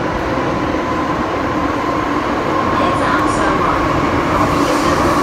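Hong Kong MTR M-Train heard from inside the car while running through the Island Line tunnel: a steady rumble of wheels and tunnel with a high motor whine over it. The whine creeps slightly up in pitch, and the sound grows a little louder about halfway through.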